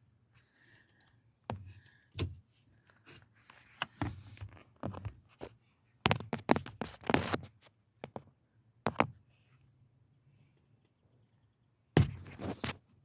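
Hard plastic parts being handled: a series of irregular clicks, knocks and scrapes, with the loudest clatters about six seconds in and near the end.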